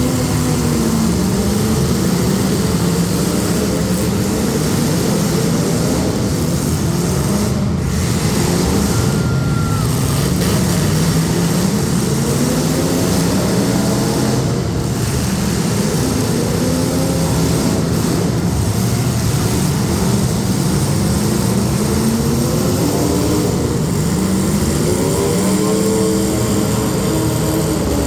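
Several demolition derby street stock cars' engines running loud and revving up and down together, their pitches rising and falling over and over.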